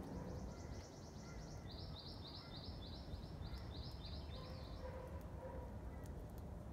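A songbird singing: a rapid high trill lasting about a second and a half, then a run of about a dozen clipped high notes at roughly four a second. Under it is a steady low outdoor background noise.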